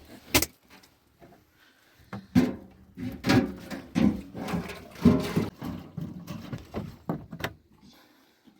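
A sharp click, then a run of irregular knocks and thuds, roughly one a second, as of objects being handled and set down.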